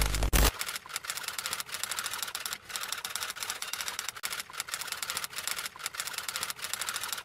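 Typewriter sound effect: a quick run of key clicks, several a second, after a short loud hit at the very start.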